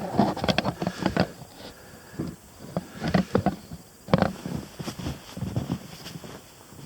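Downed branches being handled: irregular snaps, knocks and rustling, with footsteps mixed in.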